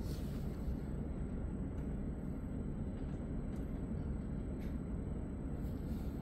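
Steady low rumble inside a Re 450 DPZ double-deck S-Bahn coach, with a few faint ticks.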